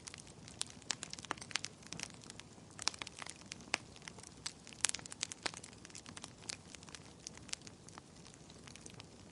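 Wood fire crackling, with frequent irregular sharp pops and snaps over a low steady hiss of burning.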